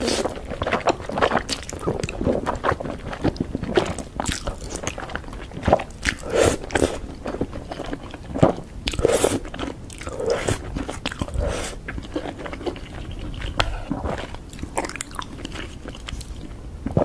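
Close-up bites and chewing of crispy fried chicken, a rapid, irregular run of loud crunches with wet chewing between them.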